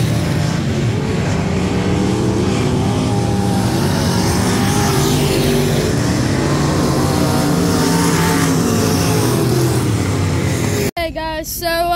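Dirt-track race car engines running hard, their pitch rising and falling as the throttle is worked, over a steady wash of track noise. About a second before the end it cuts off abruptly.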